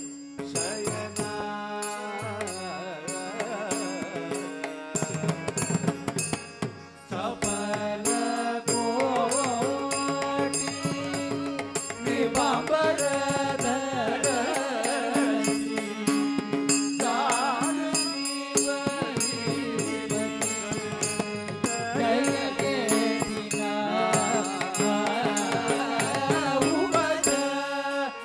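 Divyanamam bhajan: devotional chanting-style singing over a steady drone, with rhythmic percussion.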